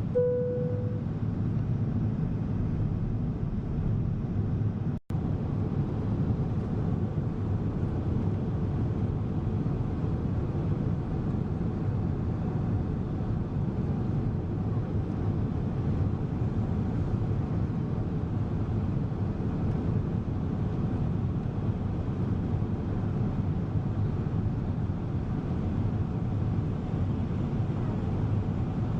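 Steady low rumble and rush of engine and airflow noise inside the cabin of a Boeing 777 airliner, with a brief clear tone right at the start and a momentary dropout about five seconds in.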